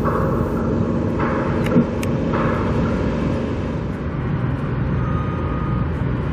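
Steady rumble of passing road traffic, with a few brief clicks about two seconds in.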